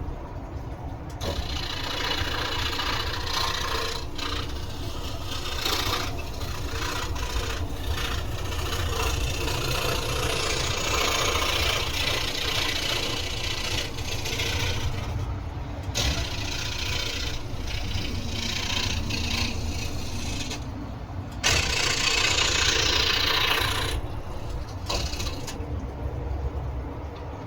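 Electric scroll saw running with a steady low hum while its reciprocating blade cuts through wood in a dense rasping buzz. The cutting noise starts about a second in and breaks off briefly a few times as the workpiece is turned or fed.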